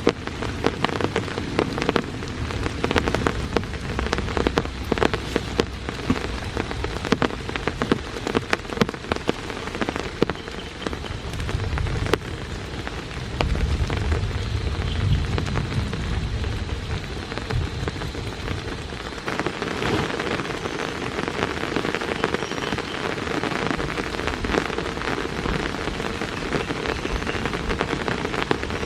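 Steady rain falling, with many single drops striking sharply close by. There is a low rumble around the middle, and the rain grows denser for the last third.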